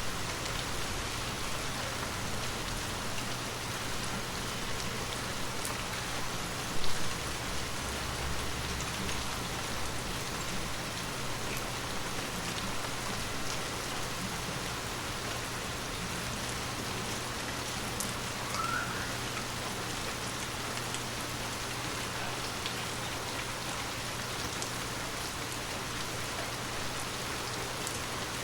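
Heavy rain falling steadily: an even hiss with scattered individual drop ticks. A brief louder thump about seven seconds in.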